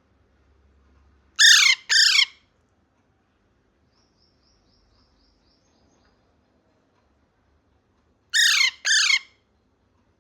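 Pet parrot calling: two pairs of loud calls, each call falling in pitch, about seven seconds apart, with a faint quick run of high chirps between them.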